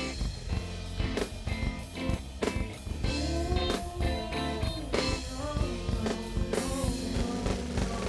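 Live band playing a hip-hop/R&B groove: a steady drum-kit beat and bass under a melodic guitar line.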